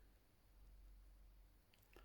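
Near silence: room tone with a steady low hum and a couple of faint clicks near the end.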